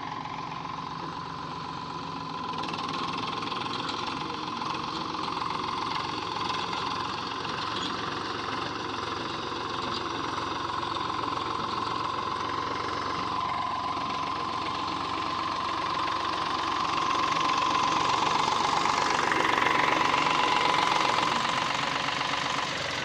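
Eicher tractor's diesel engine running steadily, growing louder for a few seconds towards the end.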